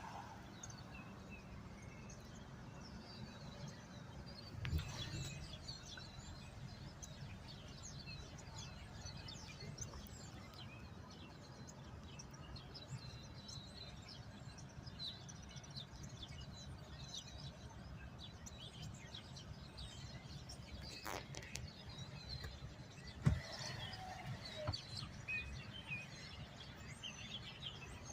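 Many small birds chirping, a dense scatter of short high tweets over a steady low rumble. Two sharp thumps stand out, one about five seconds in and a louder one past the twenty-second mark.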